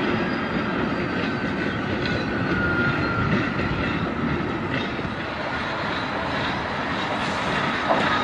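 Diesel switcher locomotive moving slowly with a covered hopper car: a steady engine and rolling-wheel rumble. A faint thin squeal drifts slowly down in pitch during the first few seconds.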